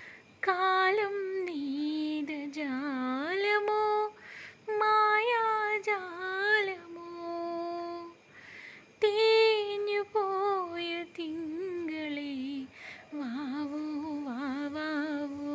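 A woman singing a slow melody without accompaniment, in short phrases with held, wavering notes.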